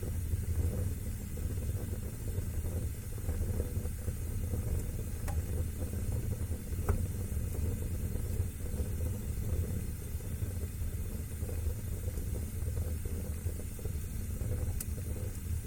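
Wood fire burning in a fireplace: a steady low rush of flames with a few faint crackles.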